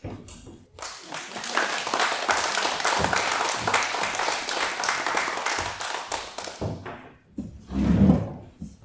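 Live audience applauding, a dense crackle of many hands clapping that swells, holds for several seconds and dies away, followed by a single loud thump near the end.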